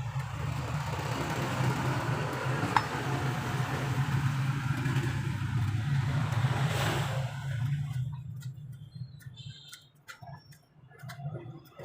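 Truck engine idling steadily, then the sound drops away about eight seconds in, leaving only faint scattered clicks.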